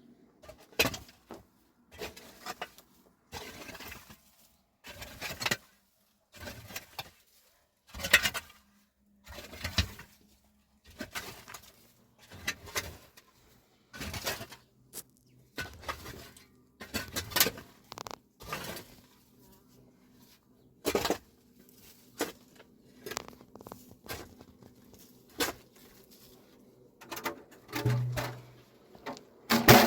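A long run of irregular knocks and clatters, some sharp and some followed by brief scraping, with short pauses between them.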